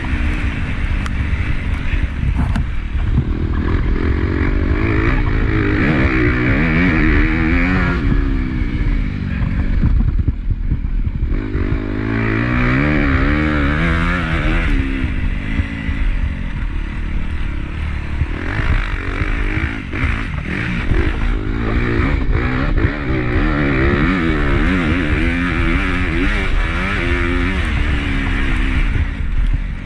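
Honda CRF250 single-cylinder four-stroke motocross bike racing, heard from an onboard camera: the engine revs up and falls back again and again as the rider opens and shuts the throttle, over a heavy low rumble, with a brief lull about ten seconds in.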